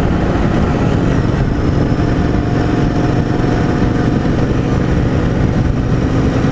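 Motorcycle on the move: its engine runs steadily under dense road and wind noise.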